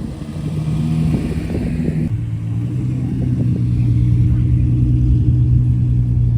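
A vehicle engine running. Its note drops about two seconds in, then holds steady and grows louder.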